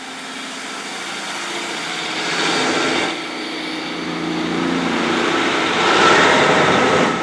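A train passing through a station. Its engine and wheel noise builds to a peak about six seconds in and falls away near the end.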